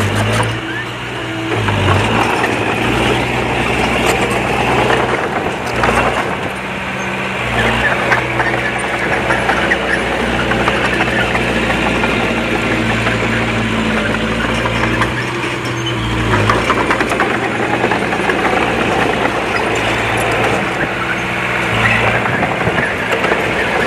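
Heavy diesel engine of earthmoving machinery running under changing load, its pitch stepping up and down several times, with continual clanking and rattling.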